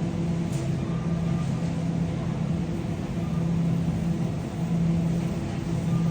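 Shopping cart rolling across a store floor: a steady low rumble and hum from the wheels that breaks off briefly a few times as the cart slows or turns.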